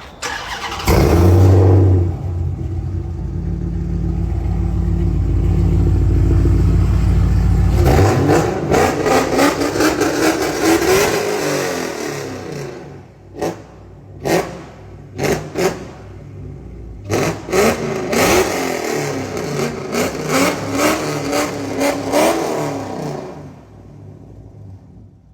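Supercharged Hemi V8 of a Dodge Charger Hellcat fitted with long-tube headers and a cat-back exhaust. It comes in with a loud burst about a second in and settles into a deep, steady idle. From about eight seconds it is revved over and over, with sharp blips and longer rising and falling revs, and drops back to idle near the end.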